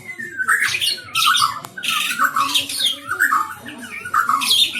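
White-rumped shama (murai batu) singing a fast, unbroken song of varied sliding whistles mixed with harsh, scratchy notes, several notes a second.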